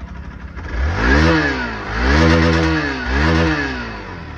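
Hero XPulse 200 4V's single-cylinder engine revved three times through its stock exhaust, each blip rising in pitch and falling back to idle, about a second apart.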